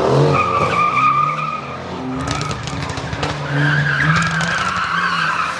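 Ford Mustang's tires squealing as it slides, in two long squeals, the second starting about three and a half seconds in, with the engine running hard underneath.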